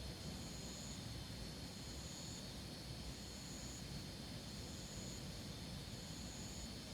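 Outdoor insects: a steady high-pitched drone with a separate chirping call that repeats evenly about every second and a half, over a faint low hiss.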